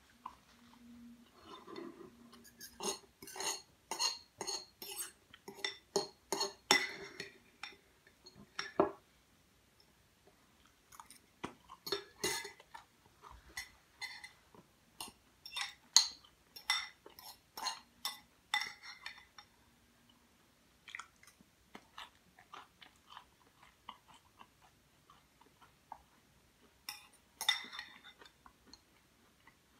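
Close-up chewing of a crunchy salad, in three long runs of rapid crunches with short pauses between them, and a fork now and then scraping or clinking in the bowl.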